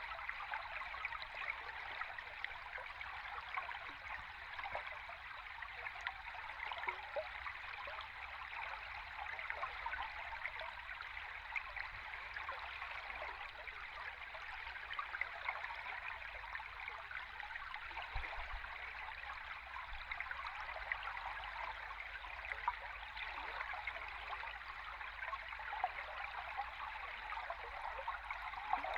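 A river stream recorded underwater: a steady rushing hiss sitting mostly in the mid and upper range, dotted with fine crackles.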